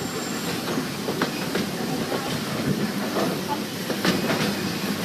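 Walt Disney World Railroad narrow-gauge steam train heard from on board: the cars rumble steadily along the track, with irregular wheel clicks over the rail joints, two of them sharper.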